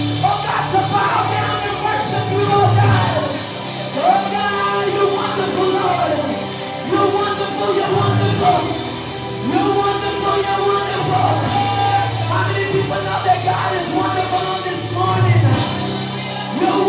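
Live gospel worship music from a church band, with singers' voices over sustained bass and keyboard-like chords.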